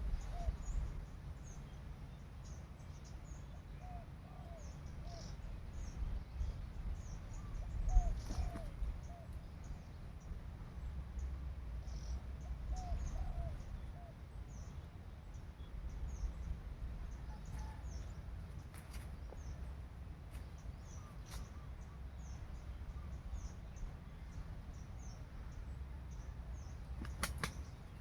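Birds calling outdoors: many short, high chirps throughout, with soft groups of about three lower notes every few seconds in the first half, over a steady low rumble.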